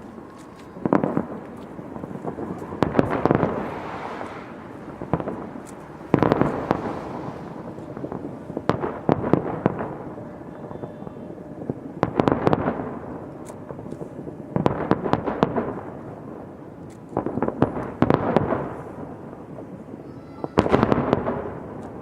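Fireworks going off in repeated bursts of rapid bangs and crackle, about eight bursts, one every two to three seconds.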